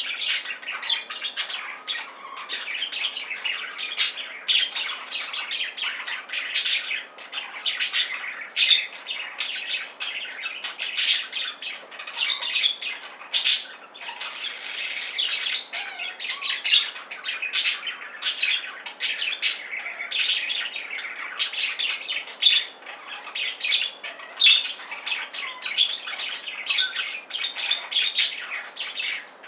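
Budgerigars chattering and chirping continuously, with frequent sharp squawks throughout.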